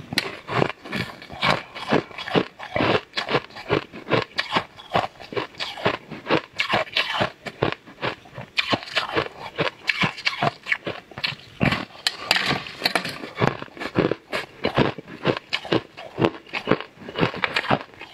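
Crisp, rapid crunching and chewing of a hard purple crystal candy slab, close to the microphone, as pieces are bitten off and ground between the teeth.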